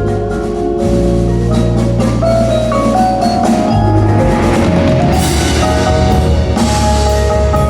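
Winter percussion ensemble playing: marimbas and other mallet keyboards carry melodic lines over a sustained low bass. Bright washes swell in about five and again about seven seconds in.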